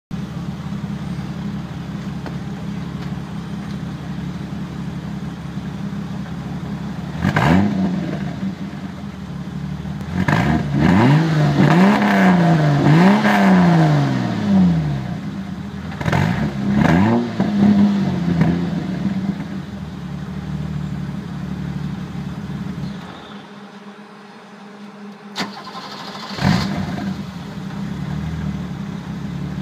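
BMW E30 325e 2.7-litre straight-six idling through a 2.25-inch exhaust with a Magnaflow catalytic converter and muffler. It is revved in a series of throttle blips: one about a quarter of the way in, several in a row through the middle, and a last short one near the end. Each blip rises and falls back to idle.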